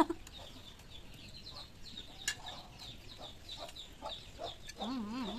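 Background bird calls: many quick, short chirps, with two sharp clicks, one at the start and one about two seconds in, and a brief wavering call near the end.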